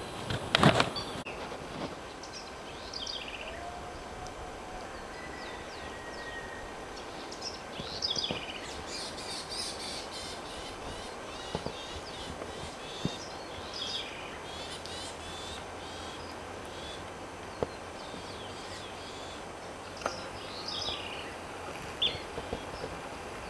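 Wild birds calling and chirping on and off, short scattered calls over a steady outdoor background hiss. A brief loud noise stands out less than a second in.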